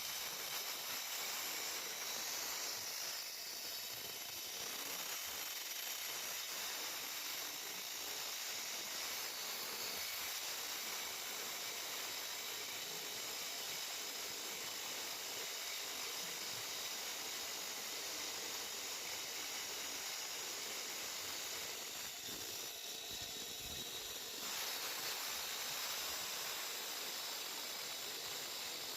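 16-inch electric concrete slab saw cutting through a concrete slab: a steady, high grinding hiss with a faint whine, keeping an even level throughout.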